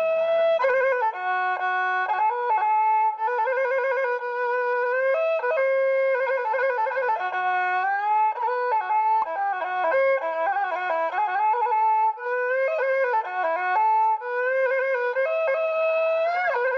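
Bowed fiddle playing a slow solo melody: held notes with vibrato, joined by sliding pitch changes.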